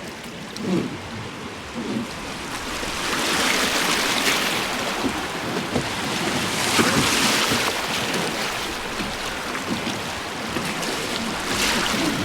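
River water rushing and splashing around a passenger boat, swelling louder twice, with wind buffeting the microphone.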